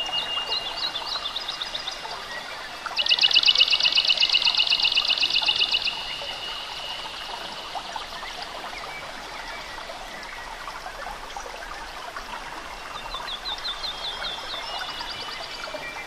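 Songbirds singing: series of high chirps, then a loud, fast trill of evenly repeated notes about three seconds in that lasts about three seconds, over a steady background hiss.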